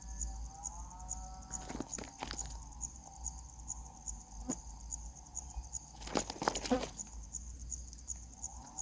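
Steady insect chirping, a high pulse repeating about three to four times a second, with two short bursts of rustling or scrambling, around two seconds in and again near six seconds in.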